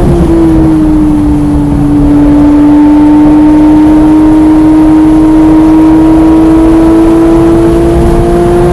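Porsche 991.1 GT3's naturally aspirated flat-six under load on track, a brief jump in engine note right at the start, then a long pull with the pitch rising slowly and steadily as the car accelerates in a high gear.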